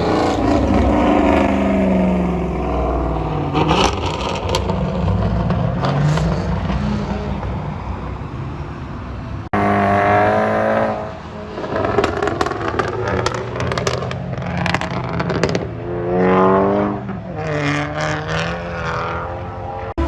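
Car engines revving hard, their pitch climbing and falling repeatedly, with scattered sharp cracks from the exhausts. The sound changes abruptly about halfway through.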